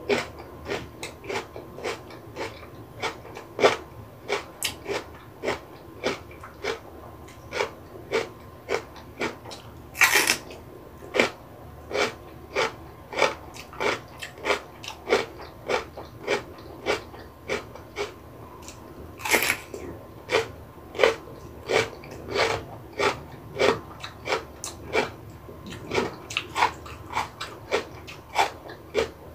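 Raw yellow bell pepper (paprika) being bitten and chewed close to the microphone: crisp, wet crunches about twice a second, with two longer, sharper crunches about a third and two-thirds of the way through.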